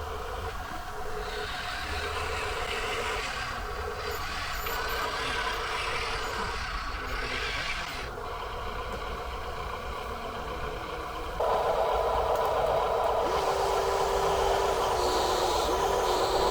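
Radio-controlled model truck running: a steady mechanical whine of small motors and gears that shifts as it works, and gets suddenly louder about eleven seconds in.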